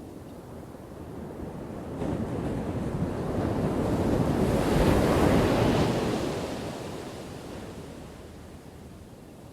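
A single ocean wave breaking: the surf swells sharply about two seconds in, crashes loudest around the middle, then washes back and fades.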